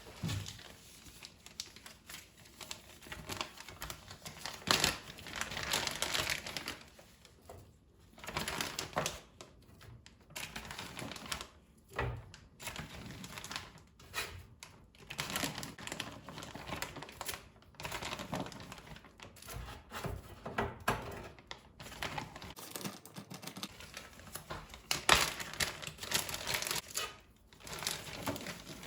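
Irregular crinkling and rustling of plastic being handled, with small clicks and taps mixed in.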